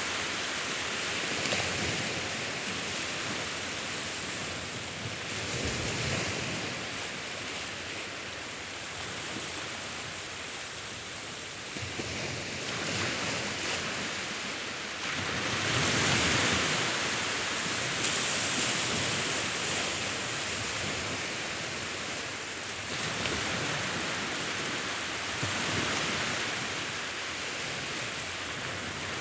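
Sea waves breaking and washing in as a continuous rushing hiss, swelling louder roughly every ten seconds as each wave comes in and then easing off.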